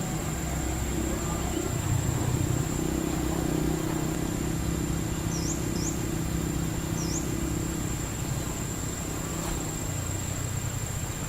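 Outdoor ambience: a low steady hum that fades out near the end, a steady high whine, and three short chirps around the middle.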